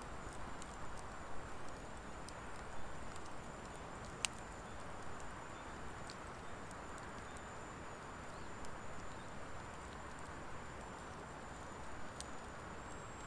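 Wood fire of driftwood and dry hardwood burning in a fire pit: a steady hiss of flames with scattered small crackles, and a sharper pop about four seconds in and another near the end.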